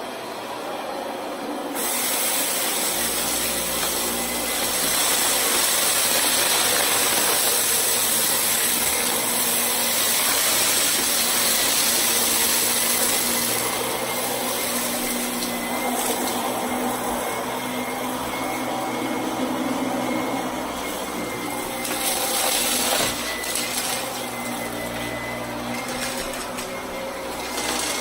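Vacuum cleaner motor running with a steady high whine, getting louder and brighter about two seconds in, with a couple of short knocks in the second half.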